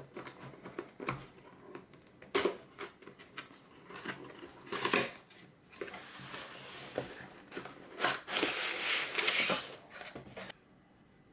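Cardboard and paper packaging being handled and opened: a run of sharp taps and clicks, then two longer stretches of rustling and sliding that stop suddenly near the end.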